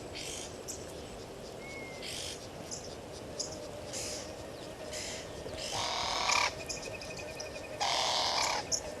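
Bush waterhole ambience: a series of short, raspy animal calls, the loudest two about six and eight seconds in, among bird chirps, a brief whistle and a pulsing trill.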